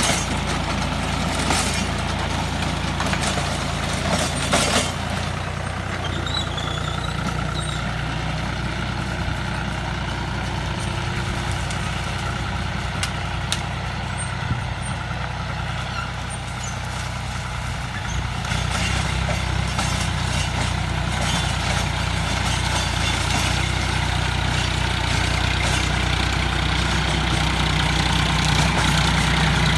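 Tractor engine running steadily while driving a rotary tiller (rotavator), a low droning note. It eases slightly in the middle and grows louder again about two-thirds of the way through, with a few brief knocks early on.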